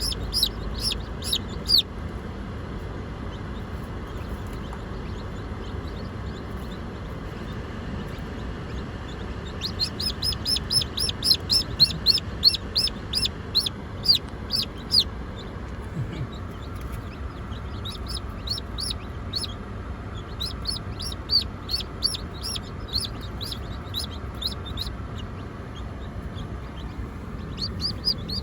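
Day-old chick peeping: runs of short, high peeps, each falling in pitch, coming in bursts with pauses between. The busiest, fastest run is from about ten to fifteen seconds in.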